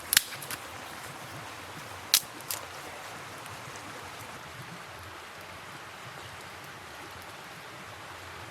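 A river running steadily, with a few sharp clicks or knocks in the first three seconds.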